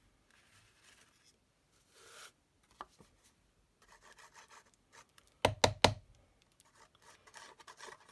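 Soft rubbing and scraping of a Tombow liquid glue bottle's tip on cardstock; the glue has been left uncapped and isn't flowing well. About five and a half seconds in come three sharp knocks in quick succession, the loudest sounds.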